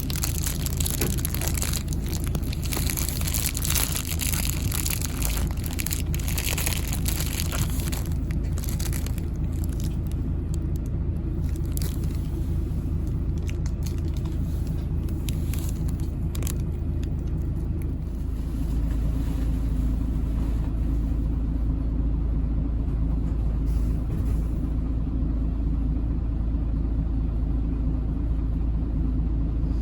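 Low, steady rumble of a moving bus's engine and road noise, growing stronger about two-thirds of the way through. Dense crackling and clicking sits over it for the first third, then dies away.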